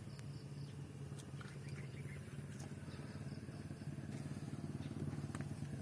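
Motorcycle engine running steadily, a low even hum with a fast regular pulse.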